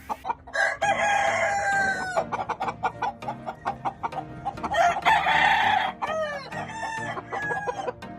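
Gamecocks crowing, two long crows about four seconds apart, with hens and other birds clucking in short calls between them.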